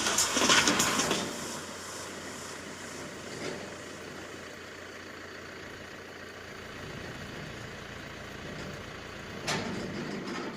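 A vehicle engine idling steadily after a burst of music fades out about a second in; a louder noise starts suddenly near the end.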